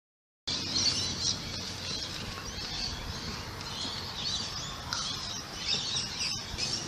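Many birds chirping at once in a dense, steady chorus of high overlapping chirps, starting about half a second in.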